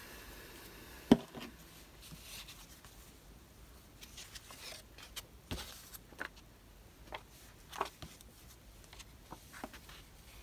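Paper and craft tools being handled on a desk: light rustles and small clicks, with one sharp knock about a second in.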